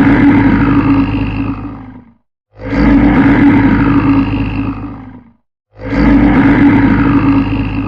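A big cat roaring: the same roar sounds three times, each lasting about two and a half seconds and fading away, with short silences between.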